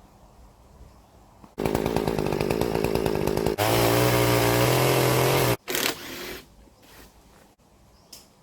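Budget Titan two-stroke chainsaw with a 50 cm bar. It starts about one and a half seconds in, running at lower speed with a rapid pulse, then runs for about two seconds at a steady high engine note. It stops suddenly about two-thirds of the way through.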